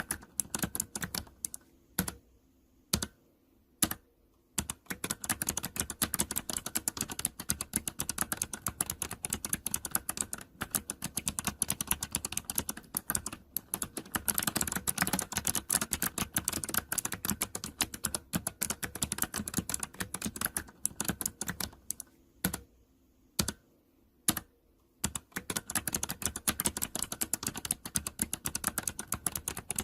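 Typing on a mechanical keyboard with optical switches: fast runs of sharp key clicks, pausing briefly twice, once a few seconds in and again about three quarters of the way through.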